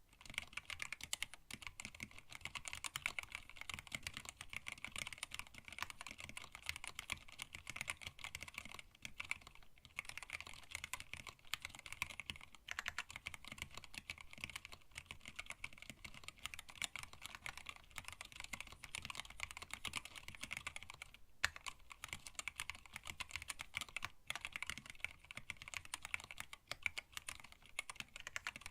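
Steady, fast typing on a hand-wired split mechanical keyboard with Tealios linear switches, blank PBT keycaps and an acrylic case: a continuous patter of key clicks with a few short pauses.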